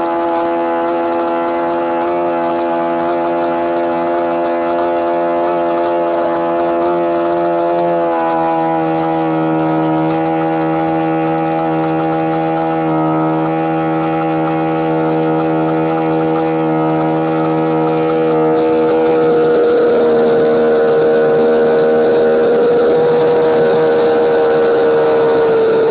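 Model aircraft engine on an RC Zero fighter running steadily during engine tuning. Its pitch shifts slightly about eight seconds in, and about two-thirds of the way through it gets louder with a stronger, higher tone as the setting changes.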